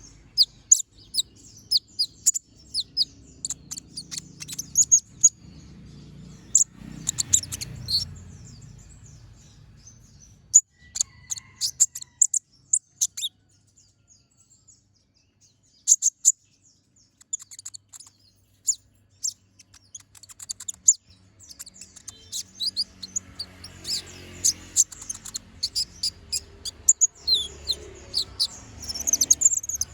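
A kolibri ninja (konin) sunbird singing: rapid, sharp, high chirps and quick trills in bursts, thinning out in the middle before picking up again.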